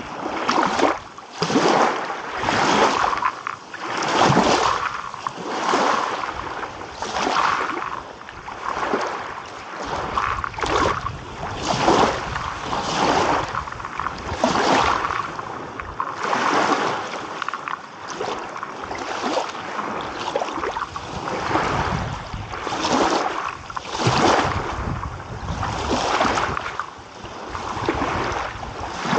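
Small waves lapping and washing in, one surge after another about once a second, each swelling and dying away.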